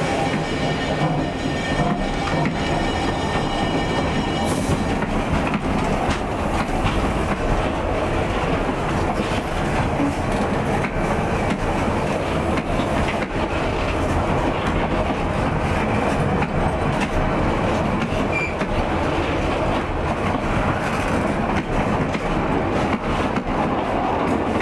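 A narrow-gauge train running past with a steady rumble and wheel clatter on the rails. The diesel locomotive's horn sounds at the start and ends about four and a half seconds in.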